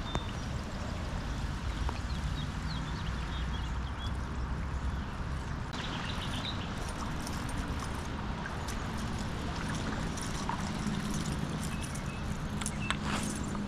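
Creek water running steadily over rocks, with a few light clicks and taps in the second half.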